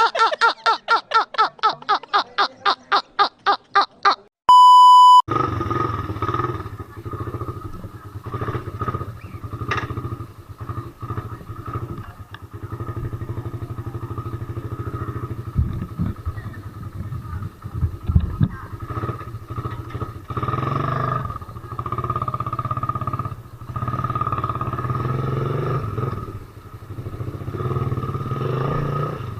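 Motorcycle engine running as the bike rides along, the throttle rising and easing. It is cut in about five seconds in after a short, loud, steady beep. Before the beep comes a rapid, evenly repeated pitched pulsing, about five a second.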